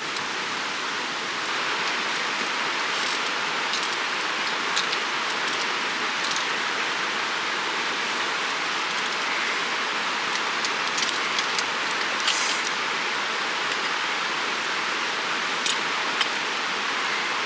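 Steady rushing of a creek running close by, with a scattering of short, sharp clicks.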